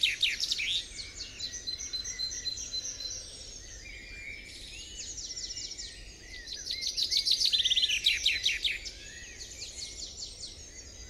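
Songbirds singing: fast trilled phrases, loudest at the start and again about midway, with softer chirps and short notes between.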